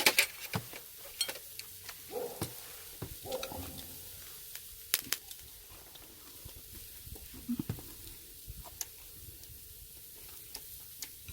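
Pork sizzling on a charcoal brazier grill, a faint steady hiss, with scattered sharp clinks of utensils and dishes.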